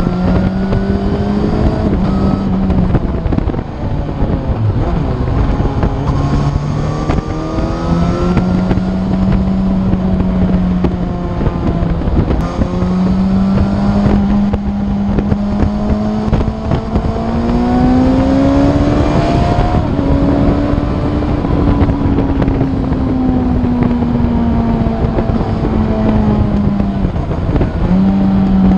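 Motorcycle engine running on the road, its pitch holding steady, dipping and climbing again with throttle and gear changes. It climbs higher about two-thirds of the way through, then slowly falls back. Wind rushes over the microphone throughout.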